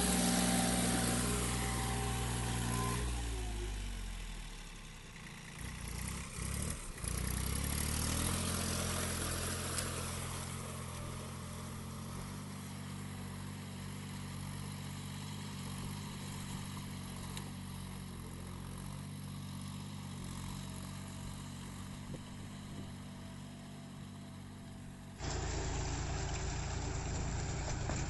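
John Deere 5042D tractor's diesel engine running, then slowing about three seconds in until it almost dies away. A few knocks follow, and the engine runs steadily again. Near the end the sound switches abruptly to another steady engine run.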